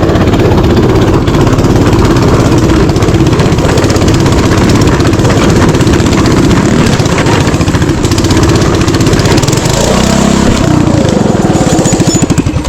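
Mini bike's small engine running loud and close, with its pitch shifting as the throttle changes about ten seconds in.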